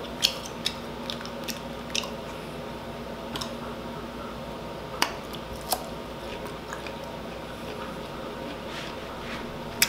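A person chewing food close to the microphone, soft wet chewing with a scattering of short sharp crunches and mouth clicks, over a faint steady hum.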